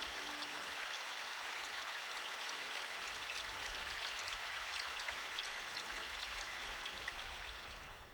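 Steady rainfall: an even hiss with many small drop ticks, fading down near the end. A low held tone dies away about half a second in.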